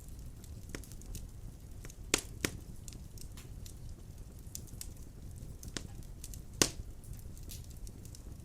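Wood-burning fire crackling: a steady low rumble of flames with scattered sharp pops and clicks. Two louder pops come close together about two seconds in, and another comes about two-thirds of the way through.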